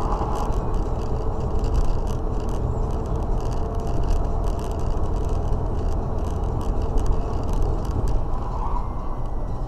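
Steady road and engine noise of a moving car, a continuous low rumble with faint scattered ticks and rattles.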